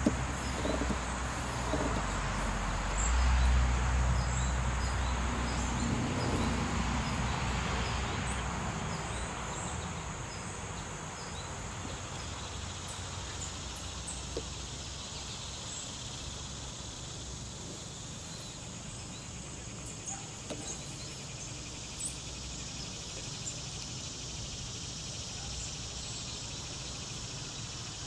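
Steady high-pitched insect chorus, with the low rumble of a passing vehicle swelling and fading over the first ten seconds or so, and a few faint single knocks later on.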